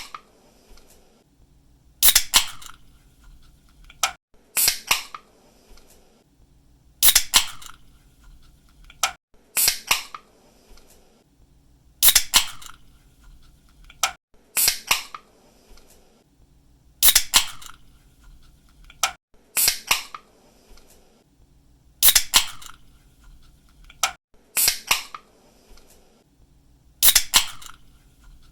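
Aluminium drink can's ring-pull tab snapping open, a quick double click followed by a short hiss, repeated about every two and a half seconds, eleven times.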